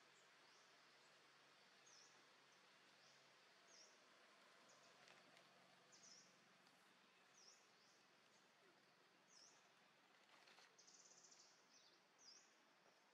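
Faint outdoor ambience with a small bird repeating a short, high chirp every second or two, and a brief buzzy trill about ten seconds in.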